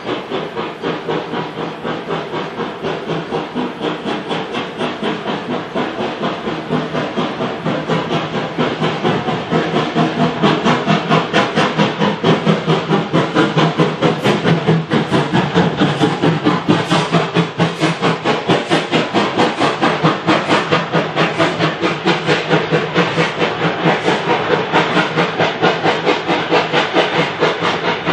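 LMS Black Five 4-6-0 steam locomotive 45212 running under steam, its exhaust chuffing in an even beat of about four a second. The chuffing grows louder about a third of the way in, then holds steady.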